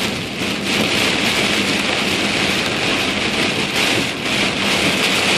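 Heavy downpour hitting a moving car, heard from inside the cabin: a loud, steady hiss of rain with a faint low hum beneath.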